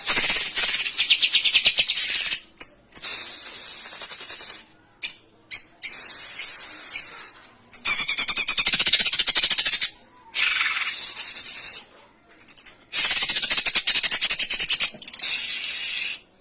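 Cucak ijo (green leafbird) singing in harsh, rapid 'tembakan' bursts: about six loud, buzzy, fast-pulsing phrases of one to three seconds each, broken by short pauses.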